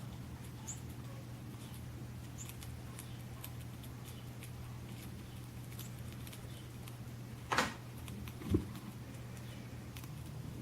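Faint, scattered high chirps and squeaks from a bird video for cats played through a device's speaker, over a steady low hum. Two louder short sounds stand out: a brief noisy burst about seven and a half seconds in and a short low sound a second later.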